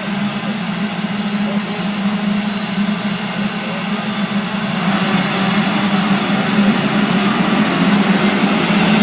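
Motocross motorcycle engines running, a steady drone that grows gradually louder.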